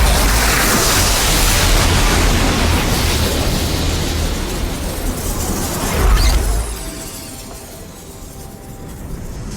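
Film sound effects of a powerful magical blast: a loud, sustained rushing roar with a deep rumble, swelling to a peak about six seconds in, then dying away under quiet music.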